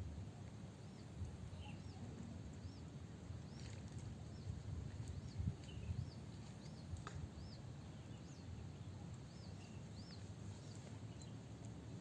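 A bird calling over and over with short, high, arched notes, about one or two a second, over a faint low rumble of wind or microphone noise.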